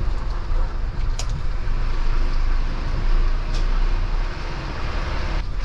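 Heavy vehicle or machinery running: a steady, loud low rumble with mechanical noise over it, and two brief sharp clicks partway through. The sound cuts off abruptly near the end.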